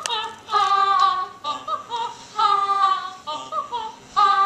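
A high singing voice from a cartoon soundtrack on a television, singing a run of short held notes with a wavering vibrato.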